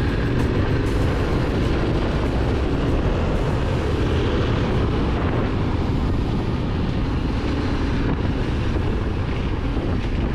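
Yamaha Ténéré 700's parallel-twin engine running steadily under way, with wind buffeting the microphone.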